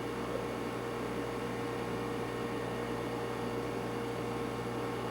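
Steady hiss and low hum with a few faint steady tones, no distinct event: the background noise of the recording.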